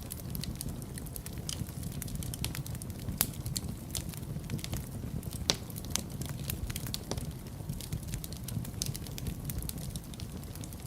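Wood fire burning in a fireplace: a steady low rumble of flames with frequent irregular crackles and pops, the sharpest snaps about three and five and a half seconds in.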